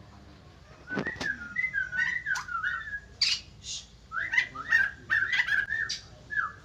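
White-crested laughingthrush singing a run of loud, gliding whistled notes, mixed with short harsh squawky notes. A single sharp knock comes about a second in.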